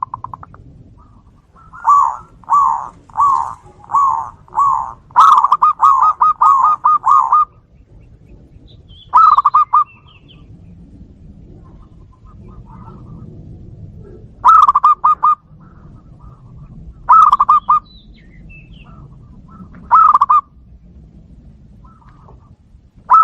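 Zebra doves (perkutut) calling back and forth. A string of five separate coos comes first, then a rapid stuttering run of coos, then short coo phrases every few seconds.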